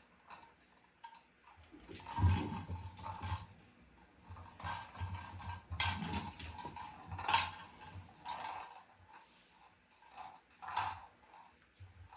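Cat toy rattling and jingling in irregular bursts as it is shaken and batted, with soft low thumps.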